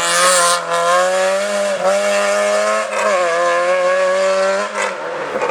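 Rally car engine running hard at high revs, its pitch holding fairly level with brief dips a few times, as on gear changes or lifts. A short hiss comes at the very start.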